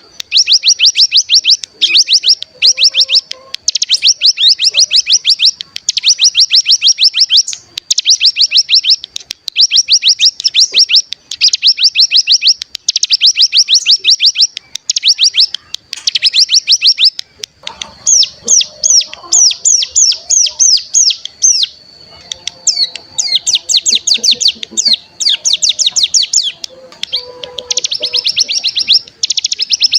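Ciblek gunung (cigun), a mountain prinia, giving its rapid buzzing trill ('ngebren') in bursts about a second long with short breaks between them. About halfway through, the trill changes to a slower run of separate rising notes, and fainter lower chirps join in beneath.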